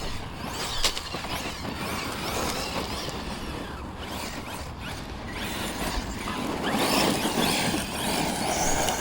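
Brushless electric motor of a 6S Arrma Notorious RC monster truck running across a dusty field, its whine rising and falling with the throttle over the rush of tyres on dirt and gravel.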